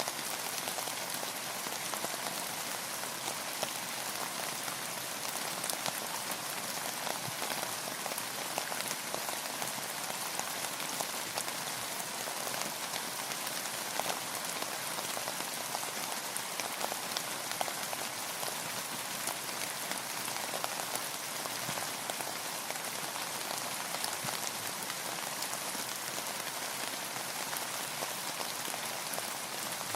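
Steady rain falling on a hard surface: an even hiss of rain with many small, separate drop impacts ticking through it.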